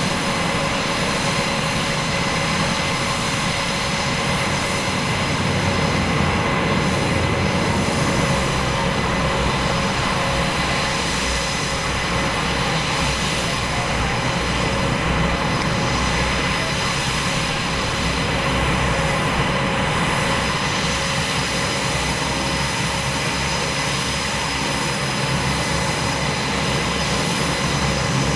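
F/A-18's twin jet engines: a continuous loud rush of jet noise with steady high whining tones running through it. It swells slightly and eases off again twice.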